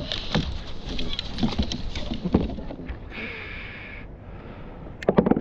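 Freshly caught gurnard thrashing as it is handled on a kayak: irregular knocks and taps, a short hiss about three seconds in, and a quick run of clicks near the end.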